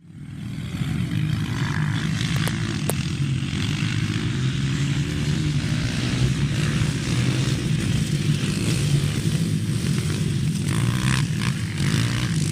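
Motocross dirt bike engines running steadily.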